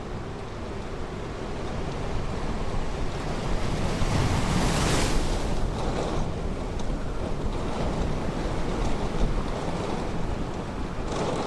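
Ocean surf washing on a beach, one wave breaking with a louder rush about four to five seconds in, over a steady low rumble of wind on the microphone.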